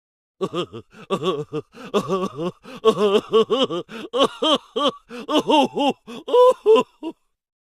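Comic voice sound effect: a fast run of short, gibberish-like vocal sounds, each swooping up and down in pitch, stopping shortly before the end.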